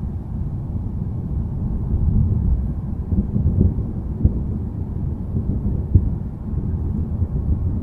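Low, continuous rolling rumble of thunder, with two short sharp knocks about four and six seconds in.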